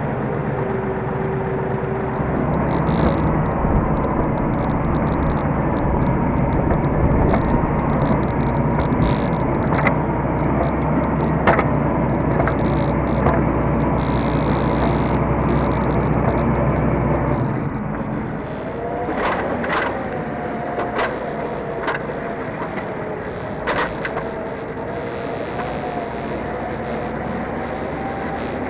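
T-150K tractor's diesel engine running under load, with a heavy low rumble that drops away about two-thirds of the way through as the engine note shifts. Several sharp knocks come through, mostly after the change.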